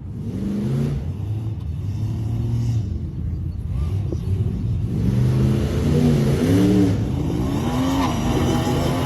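Off-road vehicle's engine revving hard under load, its pitch rising and falling again and again, louder from about halfway through.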